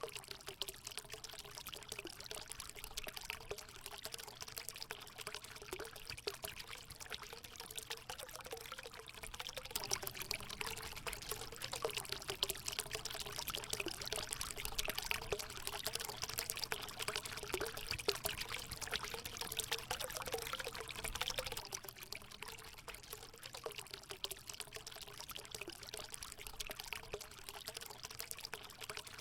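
Water running and splashing steadily as it pours into a hot spring pool, a little louder for a stretch in the middle.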